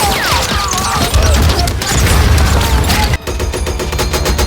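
Film battle-scene gunfire: several rifles and machine guns firing at once in a dense, rapid, overlapping volley, with a sudden brief drop about three seconds in.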